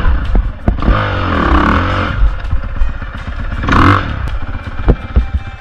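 Dirt bike engine running and revving up and down, with a short louder rev just before four seconds in, over a clatter of knocks and rattles.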